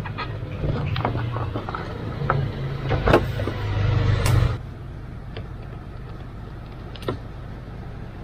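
The 2007 Ford Focus's 1.6-litre 16-valve petrol engine idling, with a few clicks, then switched off about four and a half seconds in. It is the engine being diagnosed for a high, erratic idle. After it stops, only a quieter steady background remains.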